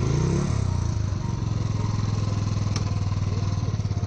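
Royal Enfield Thunderbird 350 single-cylinder four-stroke engine running after a restart, revved briefly at the start and then holding a steady thumping beat. The riders believe its petrol is contaminated with water.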